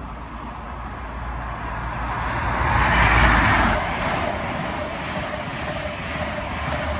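Cross-country High Speed Train passing at speed: a rushing noise of wheels and air that builds to its loudest about three seconds in and carries on as the coaches go by.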